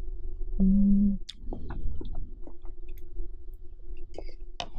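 Close-up mouth sounds of chewing a bite of creamy spaghetti carbonara: soft wet smacks and small clicks, with a short hum of the voice about half a second in and a sharper click near the end. A steady electric fan hum runs underneath.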